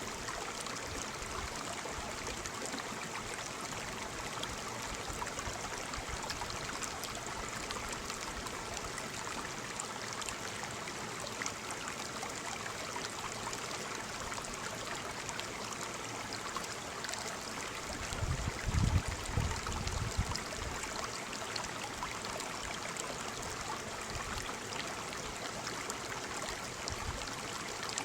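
Waterfall: a steady rush of falling water. A brief low rumble comes about two-thirds of the way through.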